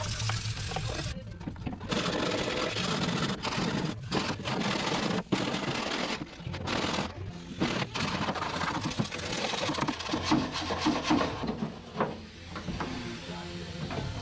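Hand brush scrubbing the painted steel of a car's engine bay in quick, uneven back-and-forth strokes with brief pauses: a dry rasping rub.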